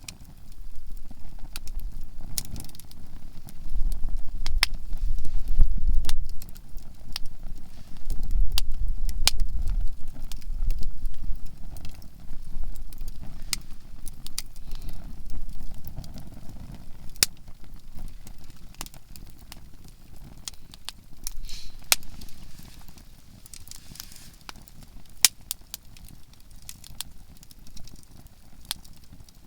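Softwood (conifer) firewood burning in a campfire, crackling with frequent sharp, irregular pops. A low rumble swells up twice in the first half.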